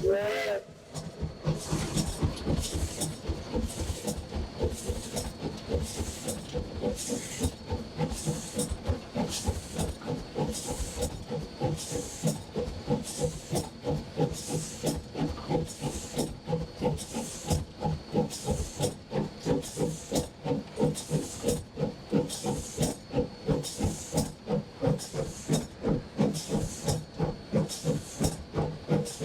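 No. 40 steam locomotive heard from the cab, its exhaust chuffing in a steady, even beat with hissing steam. A whistle blast cuts off at the very start.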